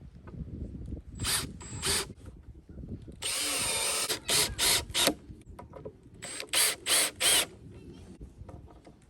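Power drill run in short trigger bursts, with one longer run of about a second, typical of driving fasteners while building a wooden platform.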